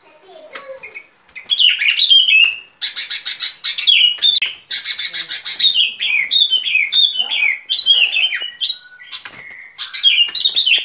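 Bulbul calls: quick, bubbly chattering phrases of short sliding notes, repeated almost without pause after a quiet first second, easing briefly near the end before resuming. The calls are from a lure recording used to draw the birds in.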